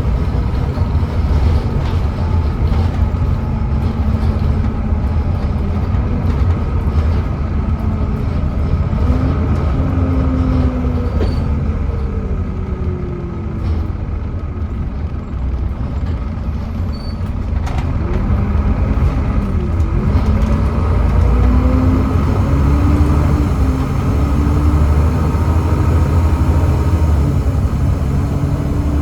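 Volvo B7TL double-decker bus running on the road, its Volvo D7C diesel engine and ZF Ecomat six-speed automatic gearbox pulling under a heavy low rumble. The engine note rises and falls several times as the bus accelerates, changes gear and eases off, then climbs steadily near the end.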